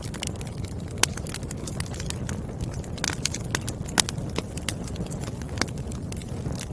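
Firewood burning in a fire: a steady low rumble of flames with scattered sharp crackles and pops, the loudest about one second and four seconds in.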